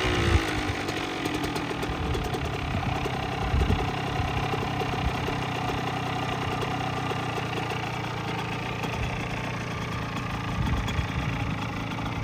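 Kawasaki KX100's two-stroke single-cylinder engine idling steadily, with a few short louder pops.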